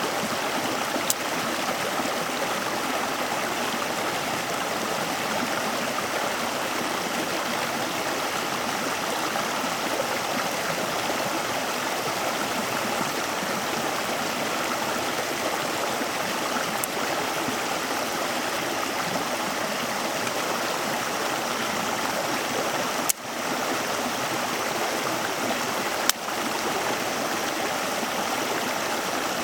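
Steady rushing of flowing water, with a few faint clicks over it.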